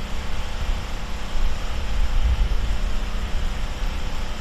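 Steady low rumbling noise, rising and falling slightly, with a faint steady hum.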